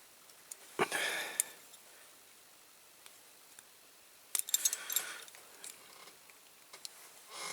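A hand tool scraping and clicking on the metal axle ends of a Corgi Toys diecast car as the pinched axle retainers are opened. It comes in three short bursts: about a second in, around four to five seconds in, and at the very end.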